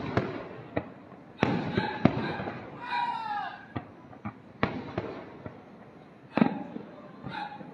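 Aerial fireworks bursting: a string of sharp bangs every second or so, some loud and some fainter, with crackling in between.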